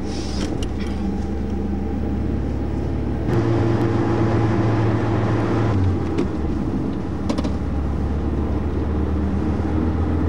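A rear-engined Skoda's engine running, heard from inside the car's cabin as it drives in traffic. Its note steps up and gets louder about three seconds in, changes again a couple of seconds later, then holds steady, with a few light clicks near the start.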